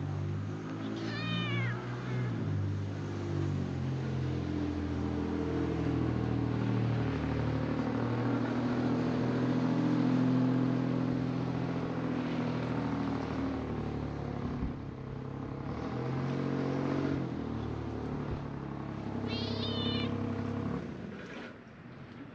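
A cat meows about a second in and again near the end, over a long low drone that swells and then fades away.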